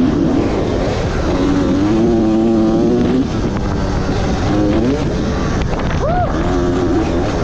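Dirt bike engine under hard riding, its pitch climbing, holding and dropping several times as the throttle is worked through the gears, with one quick blip of revs about six seconds in.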